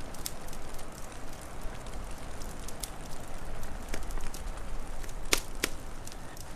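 Wood fire crackling, with scattered sharp pops over a steady low rumble and hiss; two louder cracks come close together near the end.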